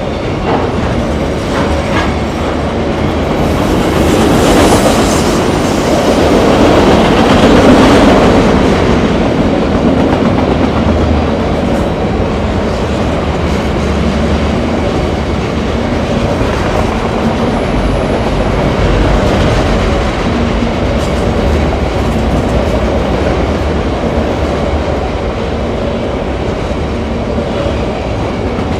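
A train rolling past on the rails, its cars and wheels making a continuous, steady running noise. The noise grows louder about four to eight seconds in, then holds steady.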